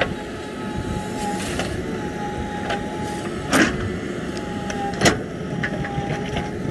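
Heavy-equipment diesel engine running steadily, with a faint wavering whine and scattered metallic clicks. Two louder knocks, about halfway through and a second and a half later.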